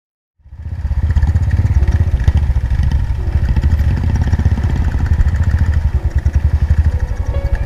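Motorcycle engine running with a rapid, even exhaust pulse, starting about half a second in.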